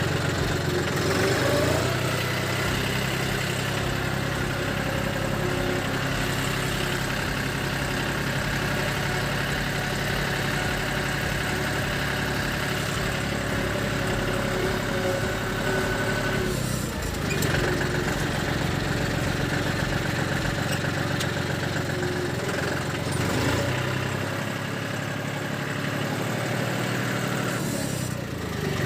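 John Deere 5310 tractor's three-cylinder diesel engine idling steadily, with two brief breaks.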